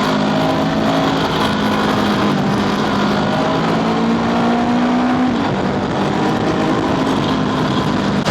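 Honda scooter's engine running at speed with wind noise on the microphone; the engine note climbs slowly, then drops about five seconds in.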